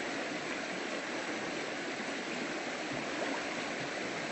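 River water flowing steadily: an even, continuous rushing.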